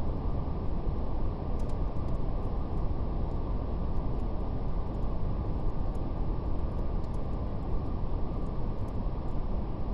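Steady brown noise, a deep even hiss strongest in the lows, with faint scattered crackles of a fire.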